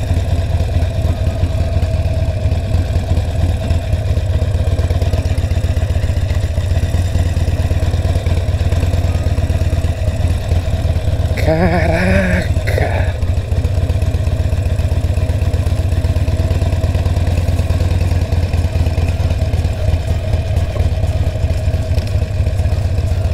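Harley-Davidson Sportster 1200's air-cooled V-twin engine running steadily, a deep, even rumble with no revving.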